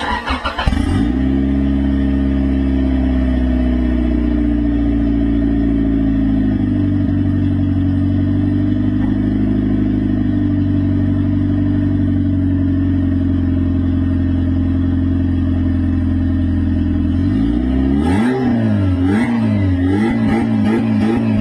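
A Honda Civic hatchback's four-cylinder engine catches after a brief crank and settles into a steady idle. About 17 seconds in it is revved several times, its pitch rising and falling with each blip.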